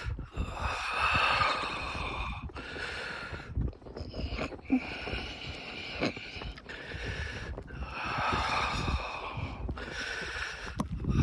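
A person breathing heavily and close, in repeated swells about every two seconds, with low rumbling and soft thumps underneath.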